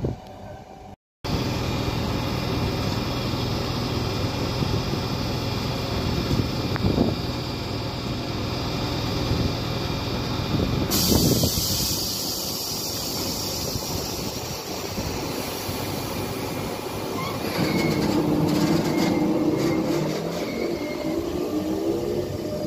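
Electric double-deck commuter train at a station platform, running with a steady rumble. In the last few seconds a rising whine comes in from its electric motors. About a second in, the sound cuts out briefly.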